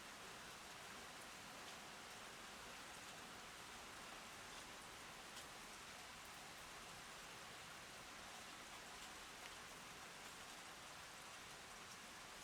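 Steady rain falling, a quiet even hiss with a few faint drop ticks scattered through it.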